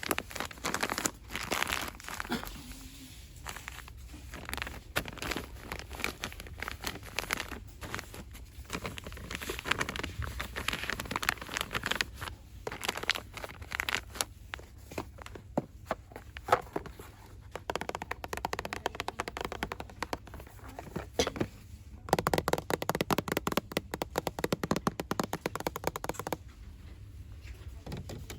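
Fast, aggressive ASMR crinkling and rustling by hand, with many quick taps and scratches. About 22 seconds in comes a run of rapid, even tapping that stops about four seconds later.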